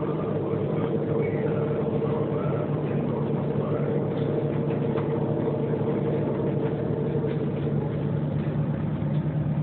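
Passenger ferry's engines running steadily while under way: a constant low hum with a steadier, higher tone above it and no change in pitch or loudness. Faint voices murmur in the background.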